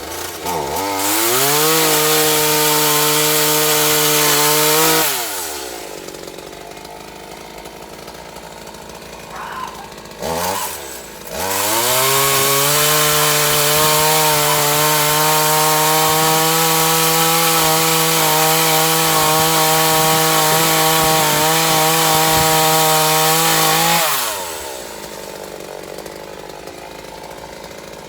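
Gasoline chainsaw revved to full throttle twice, for about four seconds and then for about thirteen seconds, each time running at a steady high pitch before dropping back to a lower idle.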